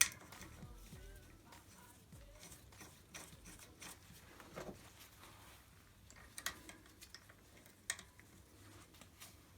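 Faint handling noises: a few sharp clicks and light knocks, the clearest about six and a half and eight seconds in, over a low background.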